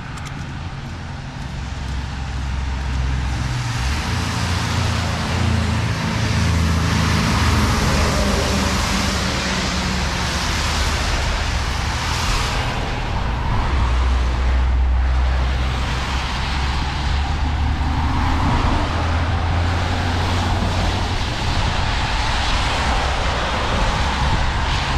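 Road traffic passing on a wet road: vehicle engines running and the hiss of tyres on rain-soaked pavement, growing louder about two seconds in.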